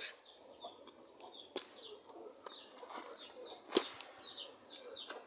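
A bird chirping over and over, short high calls each sliding downward in pitch, about two a second. A few sharp clicks break in, the loudest just under four seconds in.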